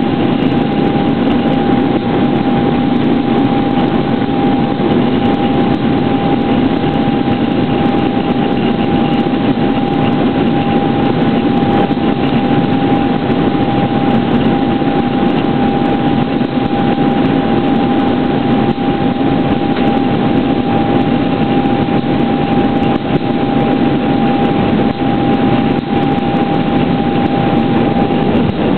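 Steady cabin noise inside an Airbus A320 in flight: the even hum of the engines and rushing air, with one steady whining tone held above it.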